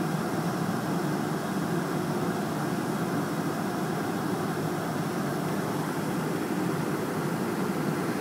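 Steady jet engine noise from a Qantas Boeing 747-438ER, an even rush with no change in pitch or level.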